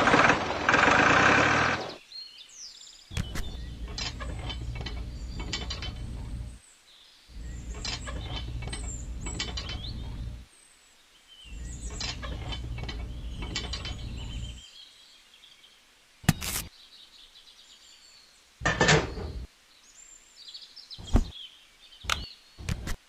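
After a loud first two seconds, a small geared motor runs in three bursts of about three seconds each, with a clicking, ratchet-like rattle through each run. A few short sharp knocks follow near the end.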